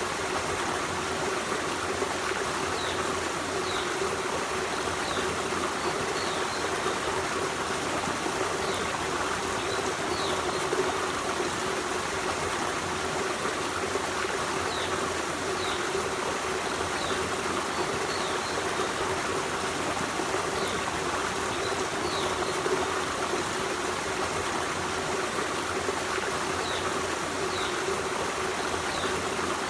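Forest stream running steadily, a constant rush of flowing water. Faint short high chirps come and go throughout.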